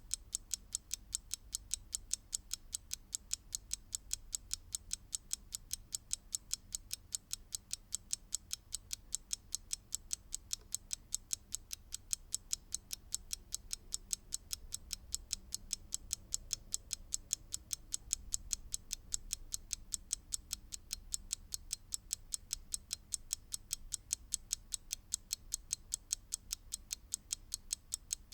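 Mechanical clock ticking in a rapid, even rhythm, each tick a sharp, bright click, with a faint low hum underneath.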